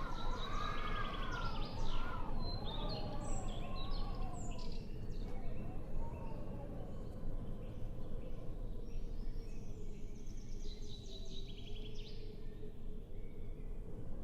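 Small birds chirping and trilling in quick bursts over a steady low rumble. During the first few seconds a distant wavering tone rises and falls, then fades out about five seconds in.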